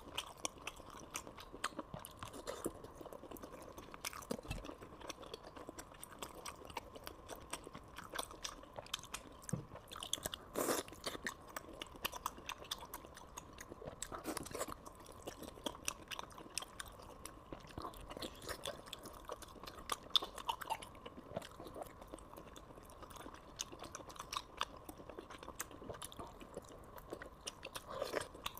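Close-miked chewing and biting of braised trotter skin and fat: a steady run of small mouth clicks, with a stronger bite about ten seconds in. The meat is chewy.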